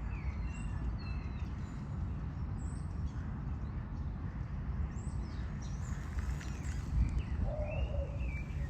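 Common starlings singing: a string of short whistles, pitch glides and chatter, with a lower warbling phrase near the end, over a steady low rumble.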